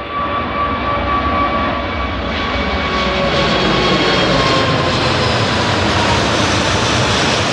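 Airbus A380's four jet engines at takeoff power: a loud, steady roar that grows louder, with whining tones on top that slowly fall in pitch as the airliner passes.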